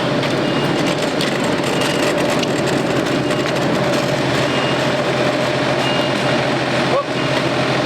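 An engine running steadily with a constant hum, with faint short high-pitched beeps recurring every second or so.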